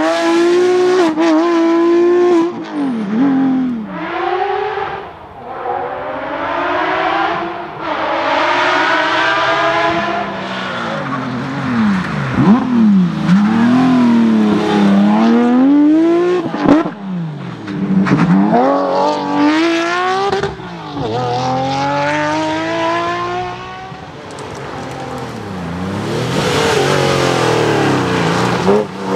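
Porsche rally cars' flat-six engines revving hard on a stage as the cars drive past, the pitch climbing through the gears and dropping on lifts and downshifts again and again.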